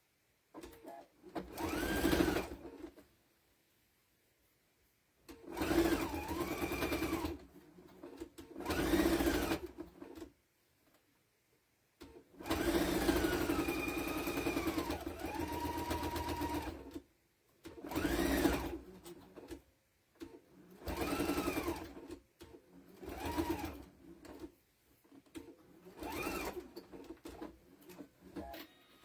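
Electric sewing machine stitching in about nine separate runs with pauses between. Its motor whine rises in pitch as it speeds up and falls as it slows.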